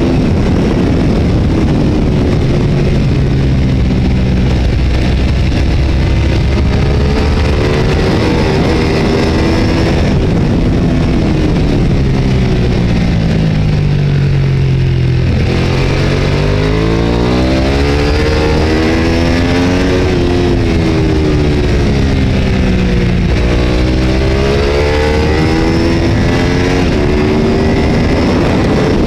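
Racing motorcycle at speed on a circuit, its engine note climbing through the gears and dropping under braking, with one deep drop about halfway through before it revs back up, over a steady rush of wind noise.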